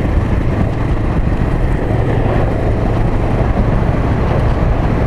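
Honda Africa Twin motorcycle being ridden on a dusty dirt road: a steady engine hum under constant wind and road noise.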